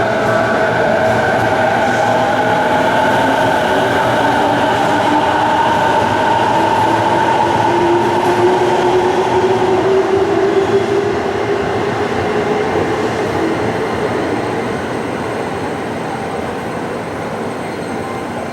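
Electric train pulling out of the platform: a steady rail rumble with motor whine rising slowly in pitch as it gathers speed, then fading away over the last several seconds.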